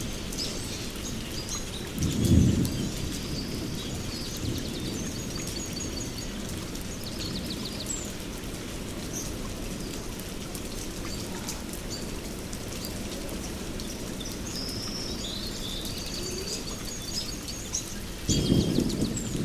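Steady rain on a forest canopy with birds chirping and trilling throughout. A short rumble of thunder comes about two seconds in, and another begins rolling in near the end.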